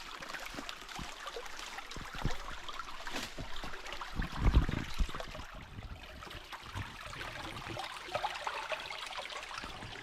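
Small creek running over rocks, a steady rushing sound. A few low thumps break in about two seconds in and again around the middle, the middle one the loudest.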